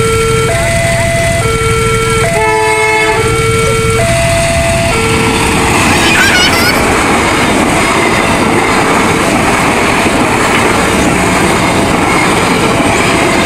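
Railroad level-crossing warning alarm sounding an alternating two-tone signal. A train horn blasts briefly about two and a half seconds in. From about five seconds a passing train's loud rumble and wheel noise drowns the alarm out.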